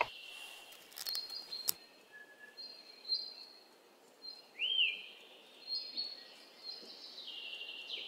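Faint small-bird chirps: short high whistles scattered throughout, one of them rising and then falling, with a few light clicks in the first two seconds.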